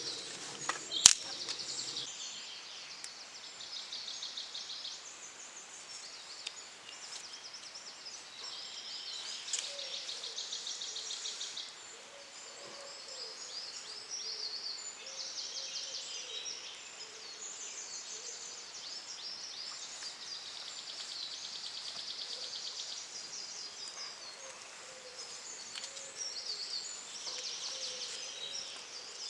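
Songbirds singing, several overlapping trilled songs of rapidly repeated notes throughout, with one sharp click about a second in.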